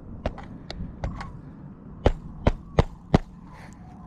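Hammer nailing a roofing nail into asphalt shingles: a few light taps, then four firm blows about a third of a second apart.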